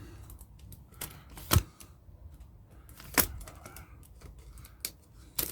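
Scattered sharp clicks and knocks of objects being handled, the loudest about one and a half seconds in, another about three seconds in and a quicker pair near the end.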